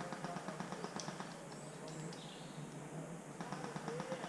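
Birds chirping, with short, rising and falling calls, over bursts of rapid, evenly spaced clicking.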